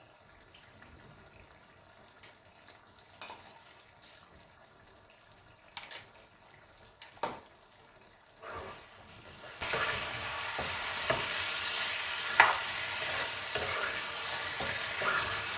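Masala chicken cooking in a pan while a spatula works it: first a few scattered taps and scrapes against the pan, then from about two-thirds in a loud, steady sizzle with stirring and scraping.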